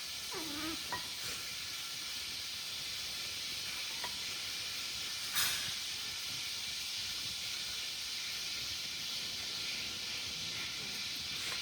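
Steady high hiss, with a short falling squeak near the start and a single sharp click about halfway through.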